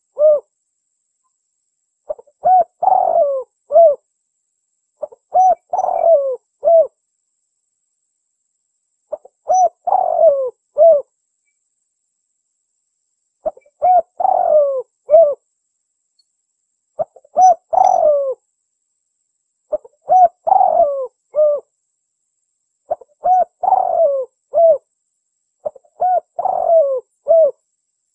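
Spotted dove (tekukur) cooing its 'kuk dua' song. A short phrase of a few coos ending in a separate note, repeated about eight times, one every three to four seconds.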